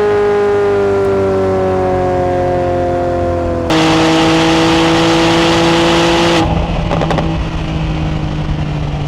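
Porsche 911 Turbo S twin-turbo flat-six running after a half-mile pull, its note falling steadily as the car slows. About four seconds in a loud rushing noise sets in suddenly and the engine note drops lower; it cuts off after about three seconds, leaving a quieter, steady engine hum with a few clicks.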